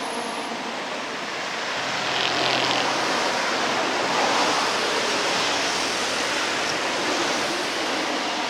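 Steady outdoor rushing noise with no distinct events, the kind made by wind or moving water.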